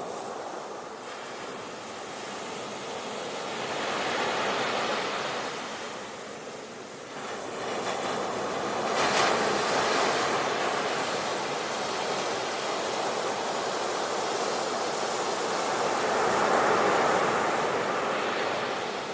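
Sea waves breaking and washing in, a steady rush that swells and ebbs, with louder surges about a quarter of the way in, around the middle, and near the end.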